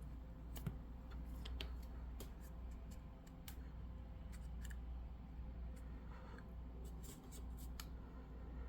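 Faint, irregular clicks and light rubbing of hard foam packing being pulled away from a model locomotive, over a low steady hum.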